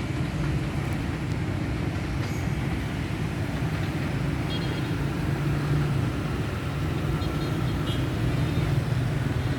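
Long-distance train rolling slowly past, a steady low rumble.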